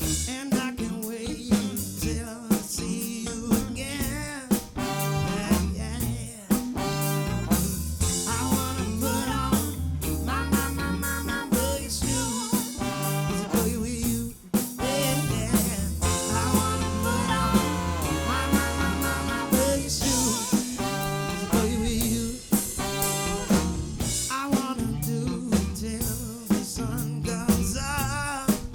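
Live soul band playing an upbeat song, with a drum kit keeping a steady beat under bass and melody instruments.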